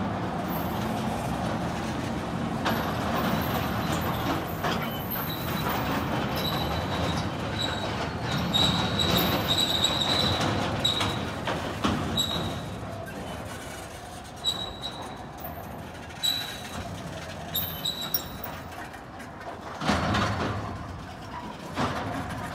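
A subway train rolling on the track: a steady rumble with short, high-pitched wheel squeals recurring through the middle. The rumble eases off in the last third, leaving a few sharp clicks and knocks.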